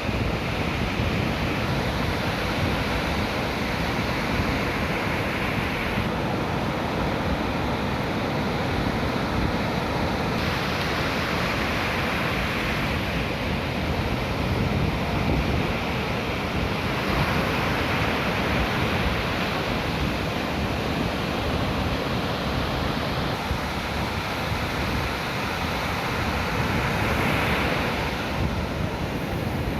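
Ocean surf breaking and washing up on the beach: a steady rushing noise that swells and eases slowly, with wind on the microphone.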